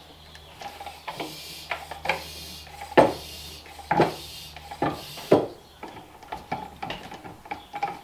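Dirt bike rear tire and rim being handled and worked into place: a series of knocks and clunks, the loudest about three, four and five seconds in, with rubber scuffing and rubbing between them.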